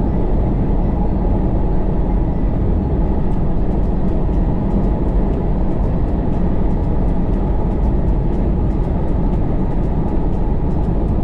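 Steady rumble of an SUV driving, engine and tyre noise with no change in pace.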